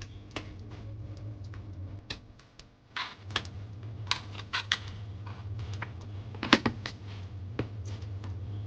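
Irregular light clicks and taps of small hard parts being handled, as in taking a blender apart, over a low steady hum that drops out briefly about two seconds in.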